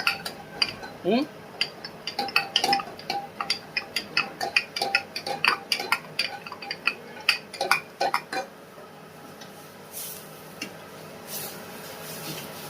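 Metal kitchen utensils clinking and clattering against cookware in quick, irregular strikes, several a second, which stop about eight seconds in.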